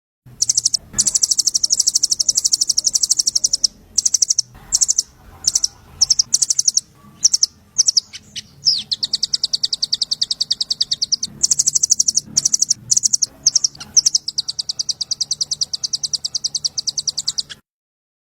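A small songbird's recorded call: a rapid, high-pitched trill of many fast notes, in several long runs broken by short gaps, cutting off abruptly near the end.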